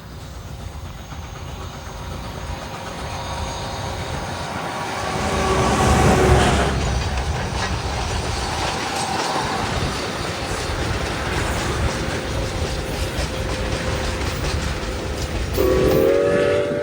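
A freight train passing close by: a rumble that builds to a peak about six seconds in, with wheels clacking over the rail joints. Near the end the locomotive's horn starts to sound, a steady chord of several tones.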